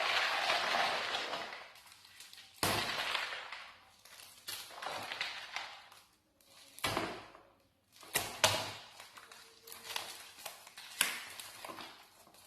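Handling noise from unpacking an aquarium heater: irregular rustling of packaging with a few sharp clicks and knocks, the loudest about eight and a half seconds in.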